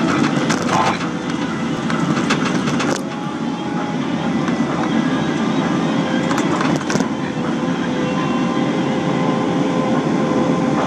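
Caterpillar 325 hydraulic excavator running under load while digging, its diesel engine and hydraulics giving a steady drone with a faint whine. Two stretches of rattling clatter, in the first three seconds and again about six seconds in.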